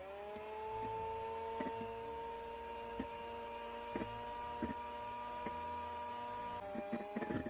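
Electric hand mixer whipping cream and sugar in a bowl: the motor spins up and runs at a steady pitch, with occasional knocks. Its pitch drops slightly near the end, with a flurry of knocks just before it stops.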